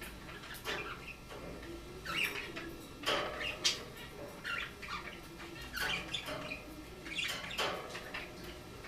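Cockatiel giving repeated short chirps and squawks at irregular intervals.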